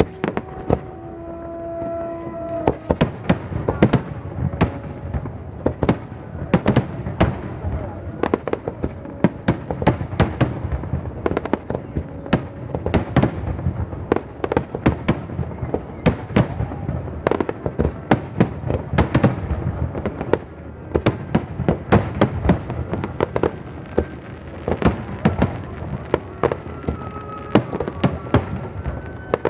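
Fireworks display: a dense, continuous barrage of sharp bangs and crackling bursts, many per second.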